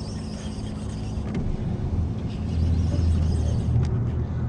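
Small jon boat's outboard motor running steadily with a low drone, getting louder about two and a half seconds in.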